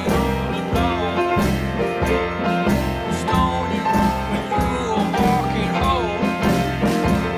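A band playing an instrumental passage: a steady beat under plucked strings, with a lead line that slides between pitches.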